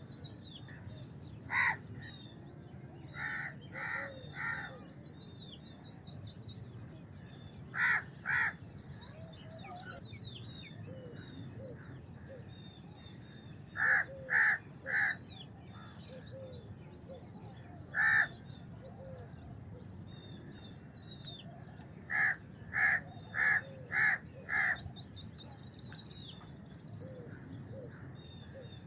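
House crows cawing in short, harsh calls that come singly or in quick runs of two to five, with long gaps between runs. A constant high twittering of smaller birds goes on behind them.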